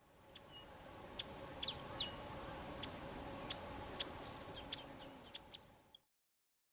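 Small songbird giving a scattered series of short, sharp, high chips and quick twitters, over a steady low hum.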